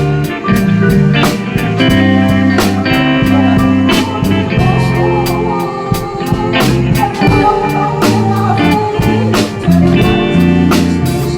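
Live band playing an instrumental passage: guitar melody over bass, keyboard and a steadily beaten drum kit.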